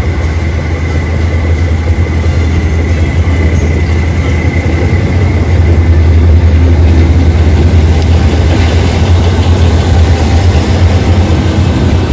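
Diesel train running on the Death Railway line: a loud, steady low engine rumble, with a thin high tone that fades out about halfway through.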